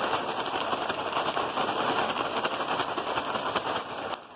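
Hoover Concept One upright vacuum running and sucking up dumped dirt and debris, with a dense rattle of grit through the brush roll and hose. The sound drops away sharply just before the end.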